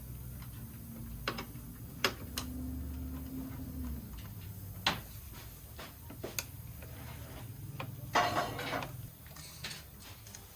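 Workshop handling sounds: scattered sharp clicks and knocks over a low steady hum, with a short rattling clatter about eight seconds in.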